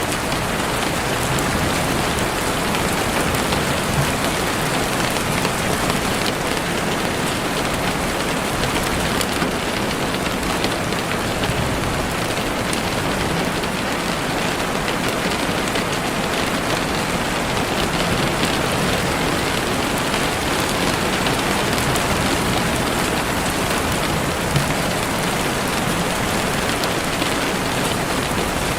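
Heavy rain falling steadily on forest leaves and ground, an even, dense hiss that holds the same level throughout.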